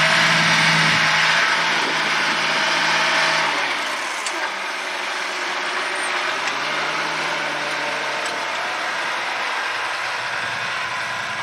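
John Deere 8R-series tractor diesel engines running under load while pulling moldboard plows. The nearest tractor's drone drops in pitch and fades about four seconds in, and a quieter engine drone carries on.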